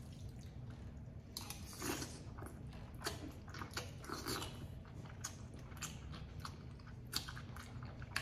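Close-up mouth sounds of a person chewing a mouthful of spaghetti in tomato sauce: a string of quiet, irregular wet smacks and clicks.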